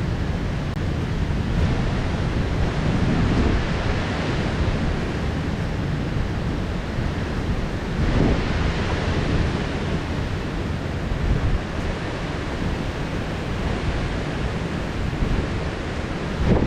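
Heavy rain pouring steadily in a thunderstorm, a dense hiss with a deep rumble underneath that swells briefly twice.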